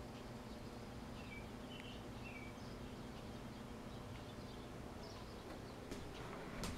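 Faint, scattered short chirps of small birds over a steady low hum of background noise, with a couple of sharp clicks near the end.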